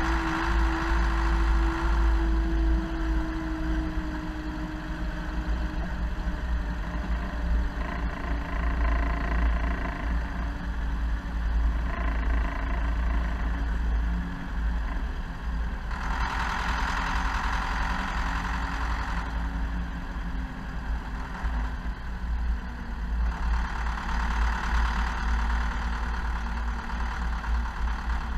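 Zetor Proxima 80 tractor's diesel engine running steadily at work. Its note eases down over the first few seconds, and a louder hiss swells and fades twice in the second half.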